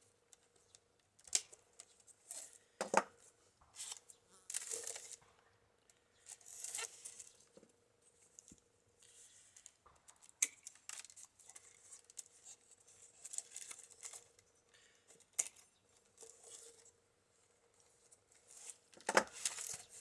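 A mended basket being handled: irregular rustles and crackles of its strips and twigs, with a few sharp clicks and a louder rustle near the end.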